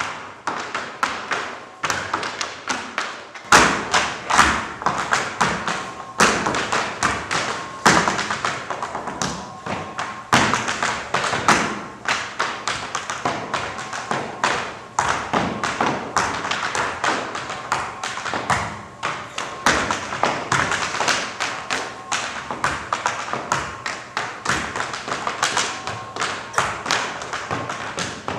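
Tap dancing: tap shoes striking the floor in fast, dense rhythmic footwork, with heavier stamped accents every few seconds.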